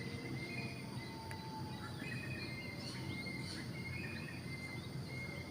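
Birds chirping and calling in short high notes and glides over a steady low outdoor hum.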